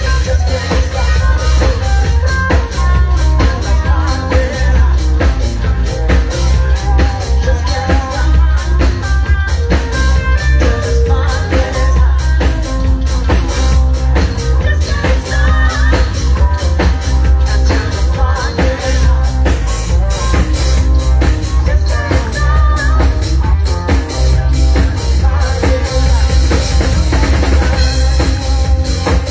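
Rock band playing, with a drum kit keeping a steady beat over heavy bass.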